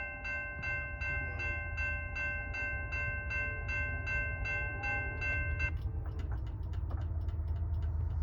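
Railroad grade-crossing bell ringing about three times a second, then stopping abruptly about six seconds in, followed by faint rapid clicking. A steady low rumble runs underneath.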